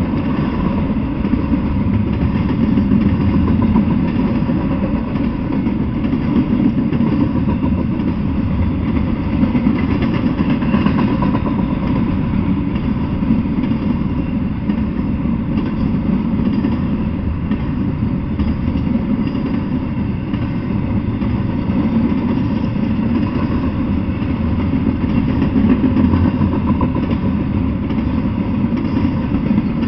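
Double-stack intermodal freight train rolling past, its steel wheels on the rails making a steady low rumble that never lets up.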